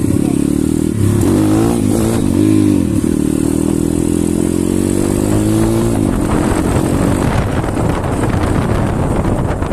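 Pit bike's single-cylinder engine running under way, its pitch rising and falling as the throttle opens and the gears change. After about seven seconds the clear engine note gives way to a rougher, noisier sound.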